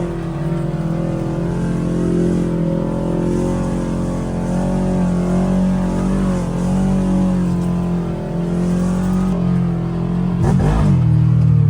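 ATV engine running under way on a mud trail, its note rising and dipping slightly with the throttle, dropping quickly in pitch about ten and a half seconds in and then running louder.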